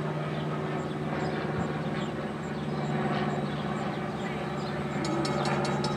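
A train running by with a steady low hum, joined about five seconds in by a rapid run of clicks from wheels crossing rail joints.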